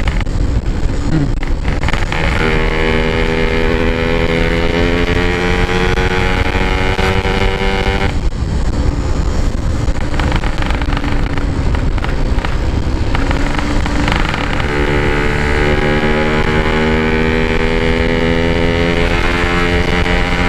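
Yamaha RX-King's single-cylinder two-stroke engine pulling under acceleration through an opened-up stock exhaust. The engine note climbs steadily, drops away about eight seconds in, then climbs again from about two-thirds of the way through. Wind buffets the microphone throughout.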